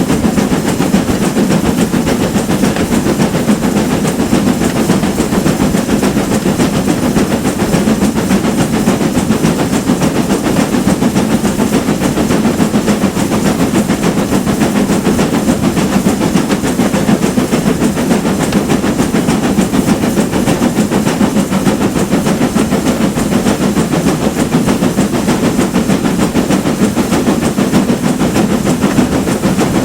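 Steam train running steadily: a GWR Manor-class 4-6-0 locomotive working hard, its exhaust beats following in quick succession with steam hiss and rail running noise.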